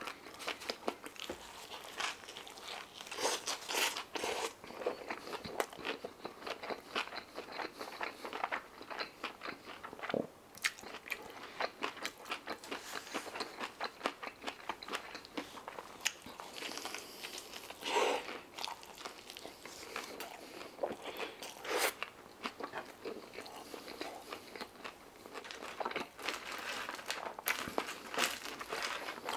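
Close-miked eating: bites of a shawarma wrap chewed with wet mouth smacks and many irregular clicks.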